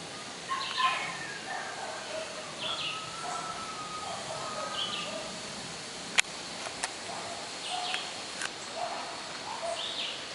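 Outdoor birdsong: several birds giving short chirps and whistles over a faint steady high tone, with a few sharp clicks about six and eight seconds in.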